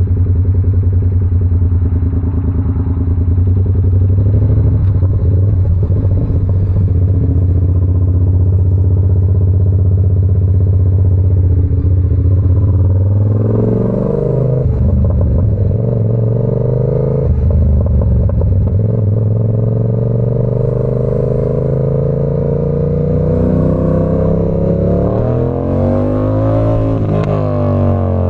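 Yamaha R7's parallel-twin engine running through an SC Project CR-T exhaust while the bike is ridden: steady cruising for about twelve seconds, then the revs fall and rise several times. The pitch climbs steadily for several seconds, then dips and climbs again near the end.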